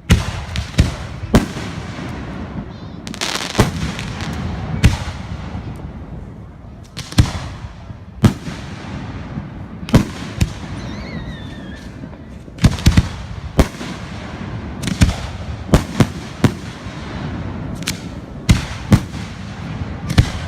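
Fireworks going off: sharp bangs at uneven spacing, about one a second, over a continuous low rumble of further bursts, with a short falling whistle about eleven seconds in.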